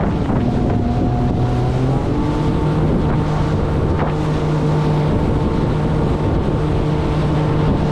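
Jet ski engine running under way, its pitch stepping up about two seconds in and then holding steady, with wind buffeting the head-mounted microphone.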